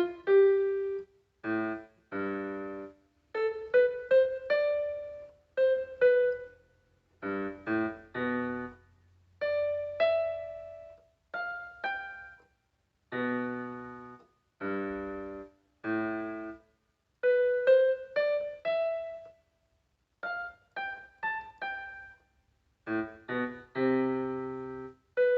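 Solo piano music: a melody of struck notes and chords played in short phrases, with brief silences between them.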